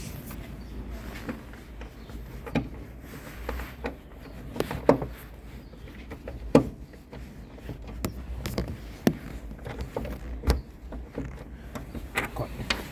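Irregular knocks, clicks and clanks of tools and parts being handled while working on a car's suspension, over a steady low rumble. The two loudest knocks come about five and six and a half seconds in.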